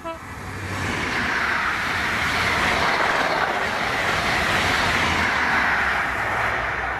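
High Speed Train with Class 43 diesel power cars and Mk3 coaches passing close by: the sound swells over the first second into a steady rush of wheels on rail with a low engine hum beneath, easing slightly near the end as the rear power car goes by.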